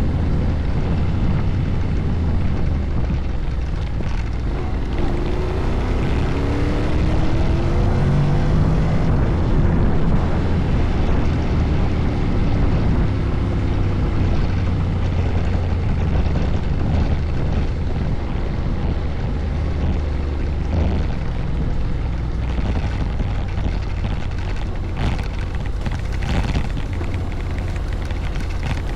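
Honda Forza 750 scooter running on the move, with a steady low engine hum under heavy wind rush over the microphone. The engine pitch rises a few times about five to ten seconds in.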